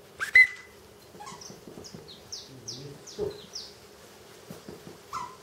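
A brief sharp high tone about half a second in, then a small songbird singing a run of about eight quick, high chirps, each falling in pitch.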